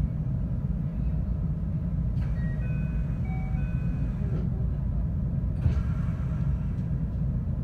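Low rumble inside a 521-series electric train as it starts off from a station, with a few short steady high tones about three seconds in and faint knocks here and there.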